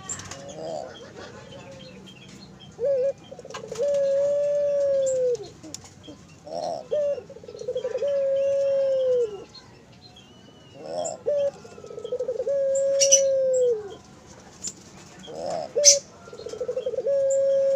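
Puter (Barbary dove) cooing: four repeated calls, each a short note, a quick rolling trill, then a long held coo that drops off at its end. A few sharp clicks sound between the calls.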